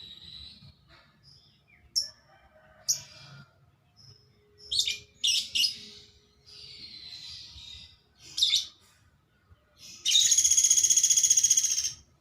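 A woodpecker calling: a series of short, sharp high calls, then a loud, rapid rattling trill lasting about two seconds near the end.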